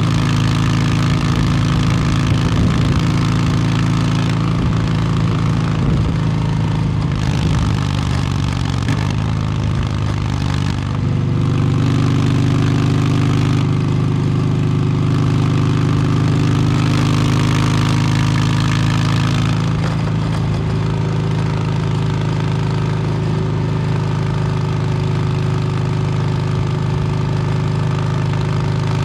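2022 Harley-Davidson Low Rider S's Milwaukee-Eight 117 V-twin through an S&S Superstreet 2-into-1 exhaust, running steadily at low revs. The note shifts slightly about eleven seconds in.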